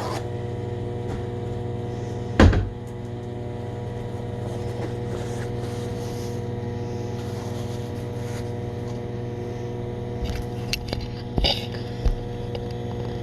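Microwave oven running with a steady electrical hum. A single knock about two and a half seconds in, and a few clicks and knocks near the end.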